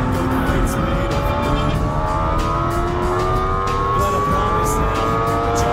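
Honda Civic Type R's four-cylinder engine under hard acceleration, heard from inside the cabin, its note climbing steadily in pitch over constant road and wind noise.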